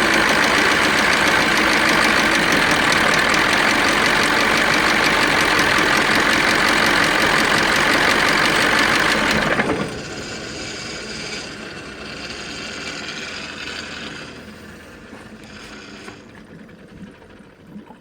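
KAMAZ truck's 7403 V8 turbo-diesel running with a knock, a fault the crew blames on a possible compressor, stuck injector or cylinder liner letting exhaust gases into the coolant. It cuts off suddenly about ten seconds in, leaving quieter sounds that fade away.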